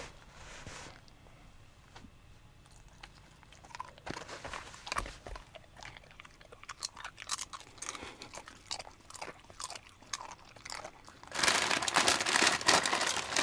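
Cooking-prep handling sounds: scattered clicks and crunches, then a louder stretch of crackling and rustling for about the last two seconds.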